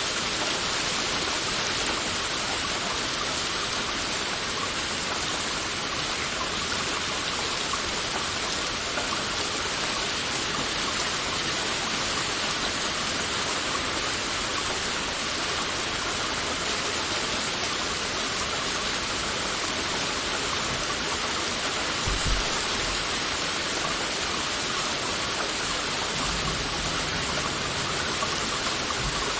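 Heavy rain falling steadily, a dense, even hiss of drops. There is a brief low thump about two-thirds of the way through and a low rumble near the end.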